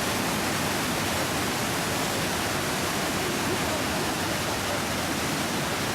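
Iguazu Falls, a large waterfall, roaring steadily as the river pours over the cliff: a dense, even rush of water noise with no break.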